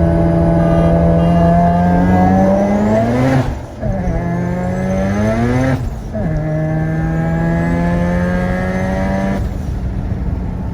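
Car engine running at a steady pitch, then revving up twice with a short break between, as in a gear change, before falling back to a steady note; the sound changes again near the end.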